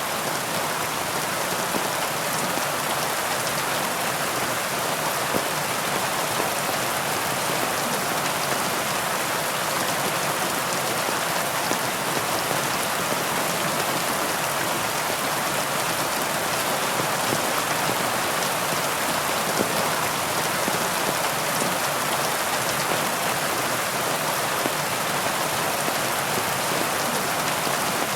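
Steady heavy rain falling, a dense even hiss of drops with faint pattering of individual drops on surfaces.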